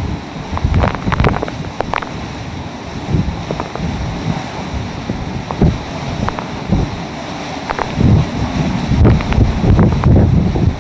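Hurricane-force wind gusting and buffeting the microphone in a heavy low rumble that swells and eases, with scattered sharp knocks and rattles.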